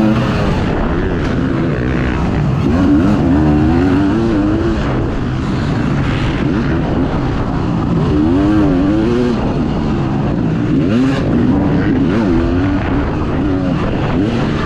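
Dirt bike engine revving hard and easing off again and again, its pitch rising and falling with the throttle as it is ridden around the race track.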